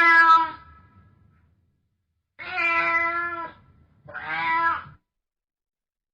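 A domestic cat meowing three times: one meow right at the start, then two more about two and a half seconds later, the last following close on the one before.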